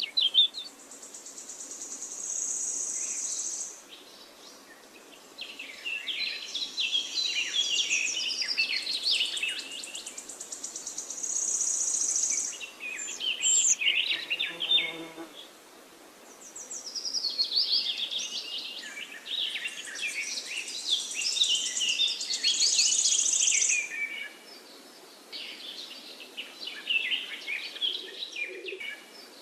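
Forest birds singing in overlapping chirping phrases, with a high, finely pulsing buzzing trill that comes and goes in stretches of a few seconds.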